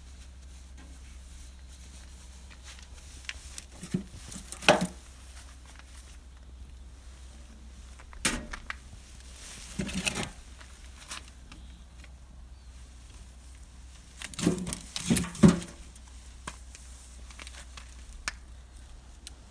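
Scattered knocks and rustling in a few short clusters, the loudest about four to five seconds in and again near the fifteen-second mark, over a steady low hum.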